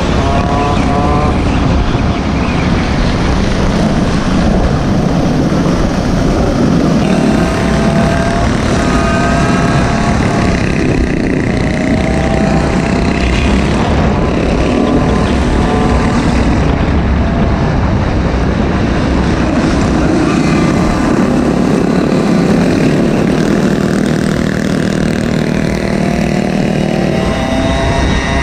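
Small engine of a Goped or mini bike running under way, its pitch rising again and again as the throttle is opened. Heavy wind noise on the microphone.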